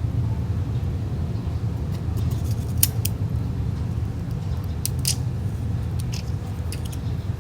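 Small sharp clicks and taps of hand tools on an iPhone 6S during a battery replacement, in pairs about three and five seconds in and a few more later, over a steady low hum.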